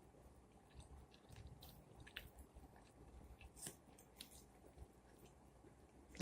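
A person chewing baked chicken and collard greens close to the microphone, with soft wet mouth clicks and smacks scattered through. One sharp, loud click comes right at the end.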